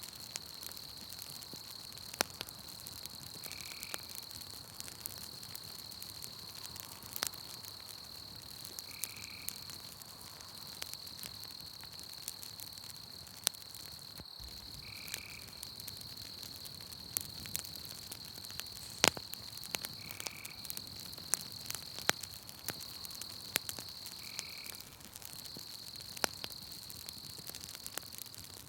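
Campfire crackling with scattered sharp pops, over a steady high drone of night insects. A short high call repeats about every five seconds.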